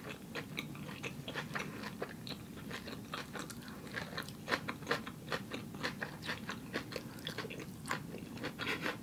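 A person chewing a mouthful of Impossible Burger close to the microphone: many small, irregular mouth clicks and crunches.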